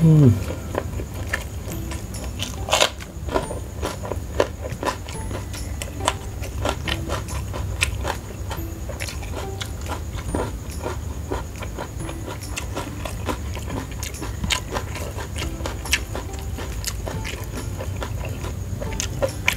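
Close-up eating: chewing with the mouth closed, full of small wet mouth clicks and lip smacks throughout. A short falling sound at the very start is the loudest moment.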